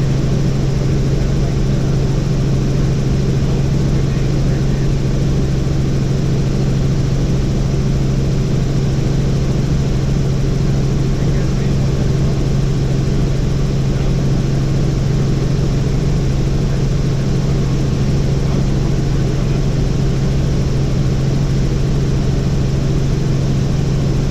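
Helicopter in flight: a loud, steady engine and rotor drone with a low hum, unchanging throughout.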